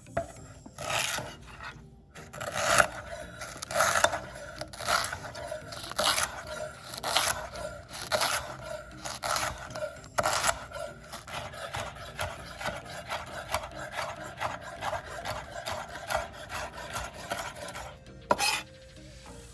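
Kitchen knife chopping and mincing lemongrass stalks on a cutting board, with a run of sharp chops about one or two a second that stops near the end.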